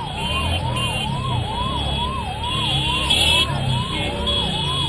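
Vehicle siren wailing in a fast repeating sweep, its pitch climbing and snapping back down about twice a second, over a low engine rumble. A higher steady tone cuts in and out alongside it.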